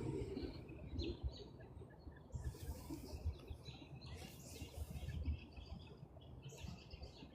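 Birds chirping in short, scattered bursts, over a faint low rumble.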